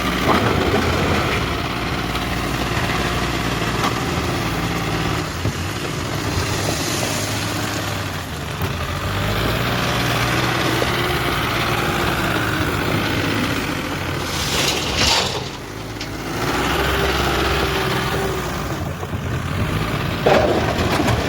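Diesel engine of a Mahindra backhoe loader running steadily while working, its pitch rising and falling a few times as it is revved. There is a short hiss about fifteen seconds in.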